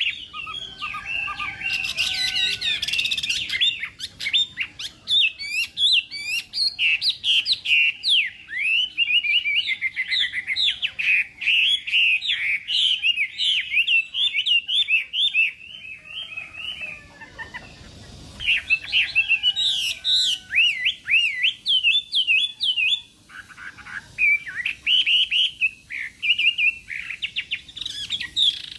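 Chinese hwamei (họa mi) singing a long, fast, varied song of rapid whistled notes, with a brief lull about two-thirds of the way through before the song picks up again.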